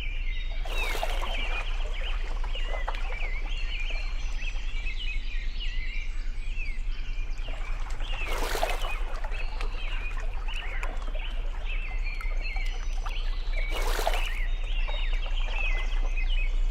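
Birds chirping continuously over a steady low hum, with three short bursts of noise spread through.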